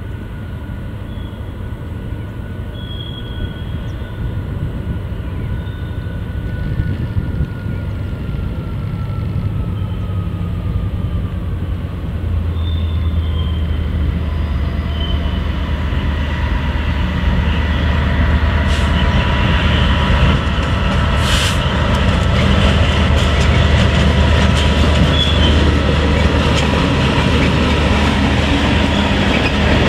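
Diesel freight locomotive approaching and passing with a heavy train of open wagons: the engine's low drone grows steadily louder, thin wheel squeals glide through the yard curves, and near the end the wagons rattle and clatter past with a single metallic clank.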